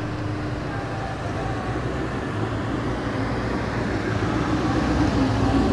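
Steady low rumble of running vehicle engines, growing louder near the end.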